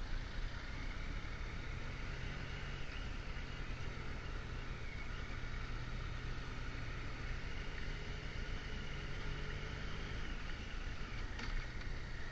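Motorcycle engine running at a steady cruising speed, an even low hum with wind rumble on the microphone. A short click near the end.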